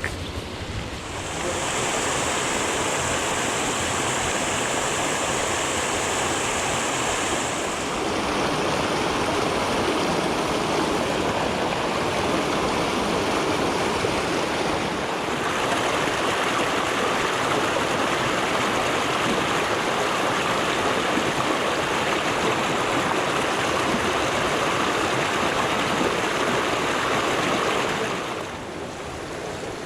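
Small mountain creek flowing, a steady rush of water whose tone shifts abruptly a few times.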